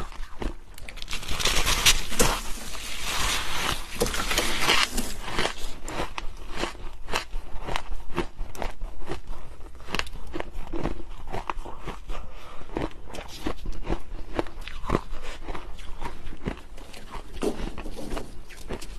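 Freezer frost being bitten and chewed, crunching close to the microphone. A dense stretch of crunching runs from about a second and a half in, then gives way to a steady run of sharp separate crunches.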